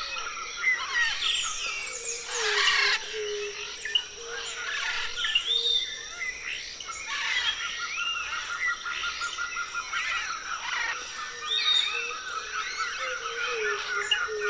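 A dense forest chorus of several birds singing at once: overlapping whistles, rising and falling notes and chirps, with a steady high insect drone and a fast pulsing trill underneath. A louder burst of calls sweeping downward comes about two seconds in.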